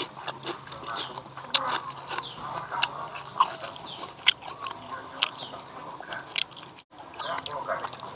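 Close-up eating sounds: wet chewing and lip-smacking of smoked catfish and rice eaten by hand, with sharp mouth clicks every second or so. Small birds chirp with short falling notes in the background.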